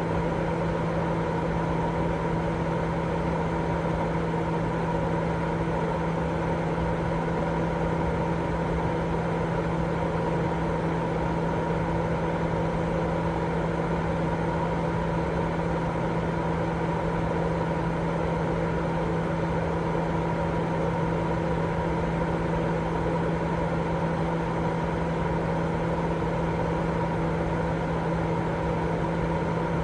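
Continuous, unchanging white noise played as a baby sleep aid: a steady hiss weighted toward the low end, with a steady hum running through it.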